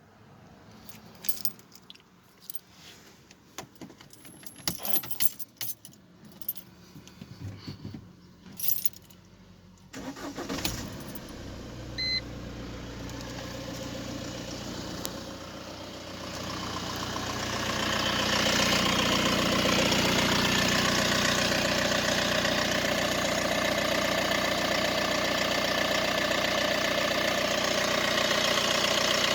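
Keys jangling and clicking, then about ten seconds in a Mercedes-Benz B180 (W245) engine starts and settles into a steady run. It gets louder between sixteen and eighteen seconds in and holds steady, running with the rattle (klappern) whose cause the owner is asking about.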